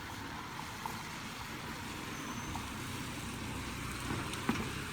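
Steady hiss of light rain falling, with a low rumble coming in about halfway through and a few faint taps.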